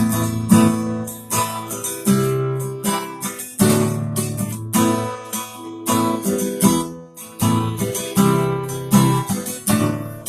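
Instrumental passage of a country-rock song led by strummed acoustic guitar, with chords struck in a steady rhythm and no singing.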